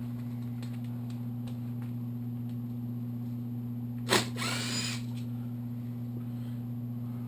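Steady low hum with faint ticks of metal tools and engine parts being handled during a motorcycle engine teardown. About four seconds in comes a sharp knock followed by a brief metallic squeal.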